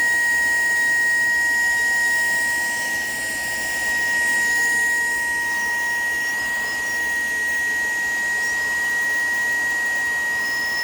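Shark PowerDetect cordless stick vacuum running with its floor head removed, sucking through the bare end of the metal wand: a steady high whine over a rush of air.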